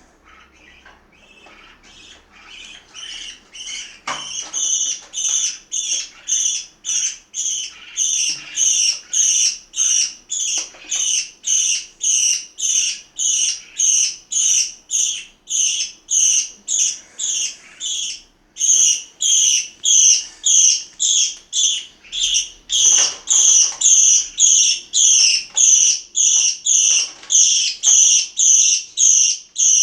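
A parakeet giving one short, high call over and over, about twice a second. The calls grow louder over the first few seconds and break off briefly once past the middle.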